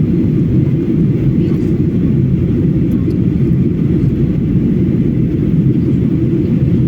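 Airliner cabin noise: the jet engines and airflow make a loud, steady low rumble heard from inside the passenger cabin.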